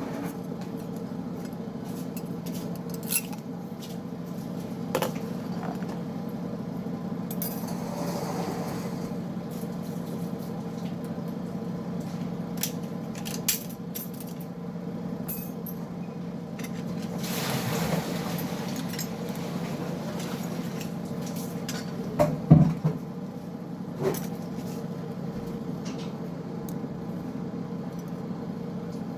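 Scattered metallic clinks and knocks of automatic-transmission clutch-pack parts being handled and taken apart, over a steady low hum. The loudest knocks come in a quick cluster about 22 seconds in.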